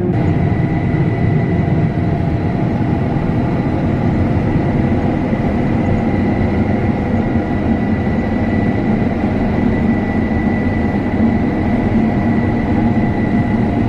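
Combine harvester running steadily, a loud even drone of engine and threshing machinery with a thin, steady high-pitched whine over it.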